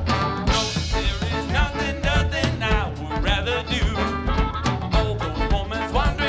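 Funk band playing live: a steady bass line and drums under a wavering lead melody.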